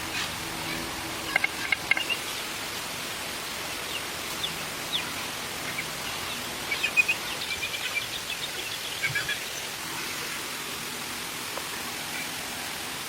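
Birds chirping in short bursts over a steady outdoor hiss, with the densest run of chirps in the middle to later part.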